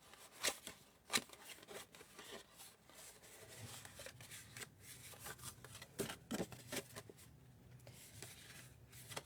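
Cardstock being handled and refolded: scattered light taps and rustles of paper against the work surface.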